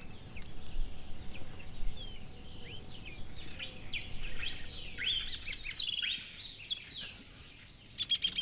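Several wild birds chirping and calling, many short quick notes overlapping; the calls thin out near the end.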